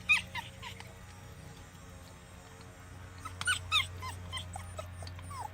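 A litter of young puppies whimpering and yipping in short, high cries: a few at the start, a quieter stretch, then a busier run of overlapping yelps from about three seconds in. A steady low hum runs underneath.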